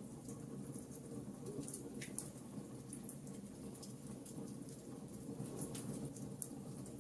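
Wood fire crackling in a fireplace: irregular small sharp pops and ticks over a low steady rumble of the flames.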